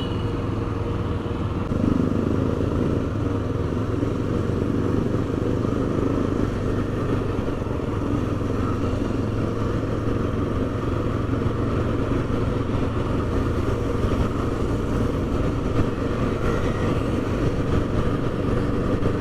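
Yezdi Adventure motorcycle's single-cylinder engine running steadily while under way, a little louder from about two seconds in.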